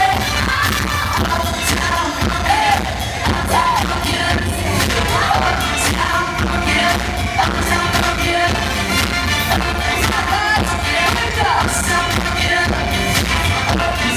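Live pop-funk music over a concert PA: band with a steady, driving drum beat and young singers' voices.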